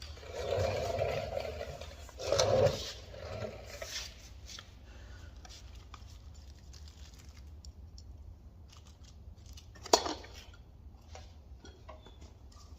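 Handling noise: rustling and knocking for the first few seconds, then scattered light clicks, with one sharp click about ten seconds in.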